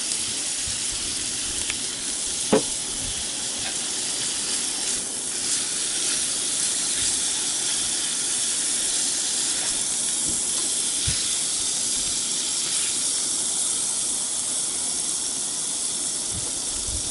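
Pork belly sizzling steadily in a cast-iron skillet, with one sharp click about two and a half seconds in.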